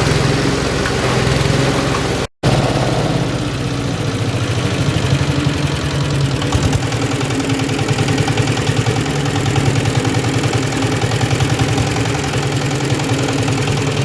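Leaf-and-twig chopper machine running, its motor humming steadily. The sound drops out for an instant about two seconds in, then carries on with a fast, even pulsing.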